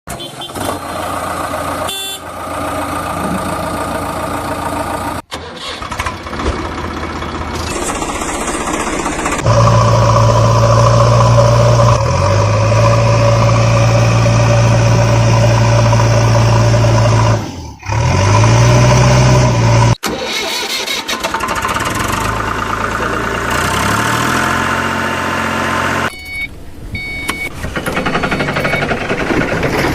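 Diesel engine of a JCB 3DX backhoe loader running and working, rising in pitch as it is revved under load. The sound breaks off suddenly a few times between clips. It is loudest in the middle, where the engine is held at high revs.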